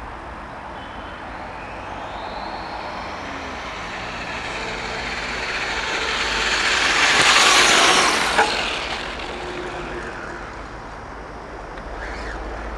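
HSP 1/10-scale radio-controlled monster truck driving, its motor whine rising and falling over tyre noise. It grows loudest as the truck comes close about seven to eight seconds in, with a sharp click just after. Near the end the whine rises again as it accelerates.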